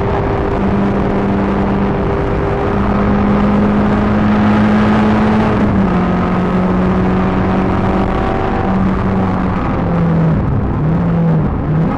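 Peugeot 306 GTi6's 2.0-litre four-cylinder engine pulling hard at high revs on track, over steady road and wind noise. Its pitch drops about halfway through, then dips and climbs again several times near the end as the car lifts off and accelerates through corners.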